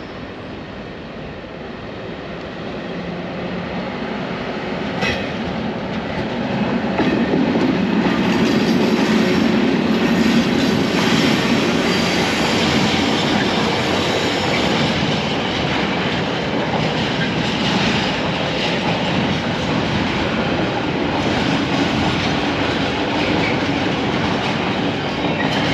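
Freight train running past, its wagon wheels clattering over the rail joints. The sound builds over the first several seconds, then holds loud and steady.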